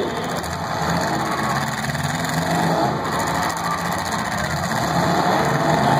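Demolition derby cars' engines running together, revving at times, with a steady engine hum underneath.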